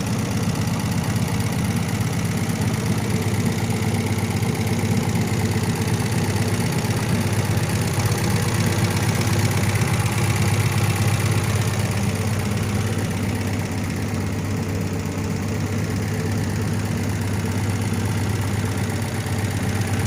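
MG engine idling steadily, running evenly with no change in speed.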